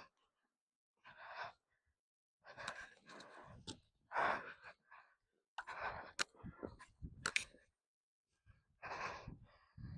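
A person breathing hard in short, separate puffs, with a couple of sharp clicks in the second half.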